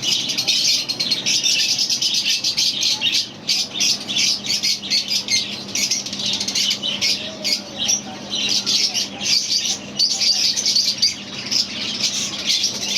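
A crowd of small caged birds chirping and squawking all at once, a dense, unbroken high-pitched chatter.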